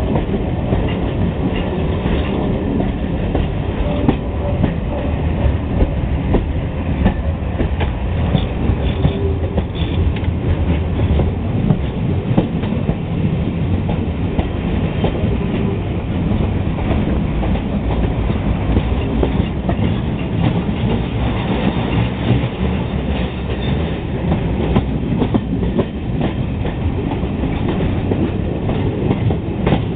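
Passenger train hauled by steam locomotive 60163 Tornado, running along the track: a steady heavy noise of wheels on rail with many short clicks over the rail joints.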